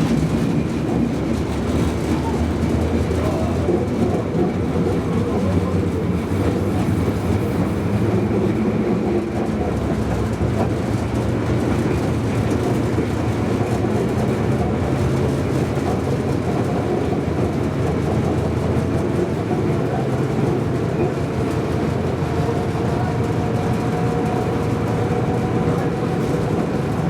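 Tram running along its rails: a steady rumble of wheels and running gear, with a faint whine that slowly rises in pitch over the second half.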